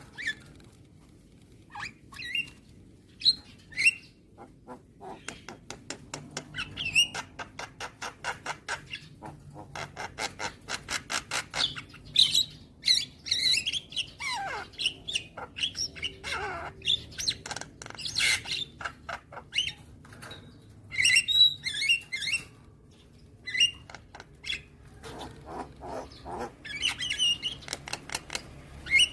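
Javan myna (jalak kebo) calling: harsh squawks and short whistles, a long run of rapid clicking chatter at about five clicks a second, and a few falling slurred notes.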